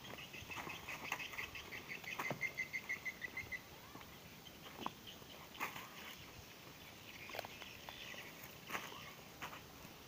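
A bird calling in a rapid run of short, high notes for about three seconds, then scattered footsteps and light knocks.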